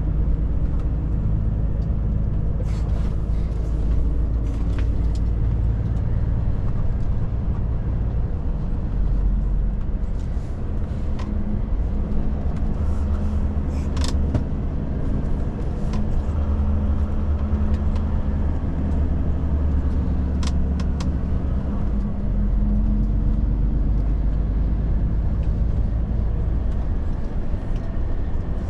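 Volvo FH truck's diesel engine running on the road, a steady low drone whose pitch shifts several times, over tyre and road noise. Scattered short clicks or knocks.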